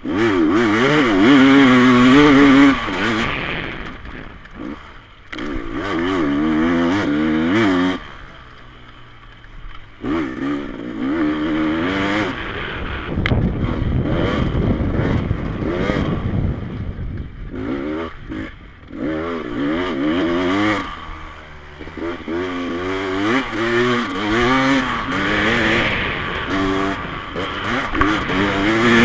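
Off-road dirt bikes racing past, engines revving up and down hard with each throttle blip and gear change, in several loud passes with brief lulls between them.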